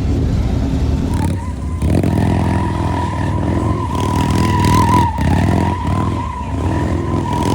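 Motorcycle engines running and revving loudly, with a steady high-pitched squeal over them from about a second in.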